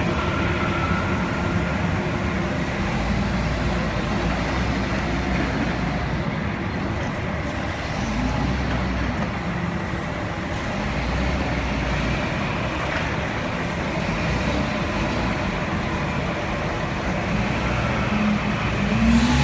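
Forklift engine running steadily, its pitch rising briefly about eight seconds in and again near the end as it revs.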